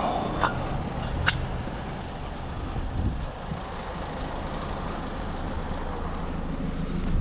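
A vehicle engine idling steadily, with a few sharp metallic clinks in the first second or so.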